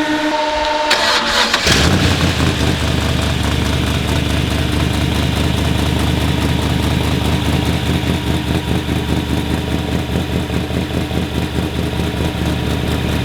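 Drift truck's engine starting: a steady whine, a short burst as it fires about a second and a half in, then the engine idling steadily.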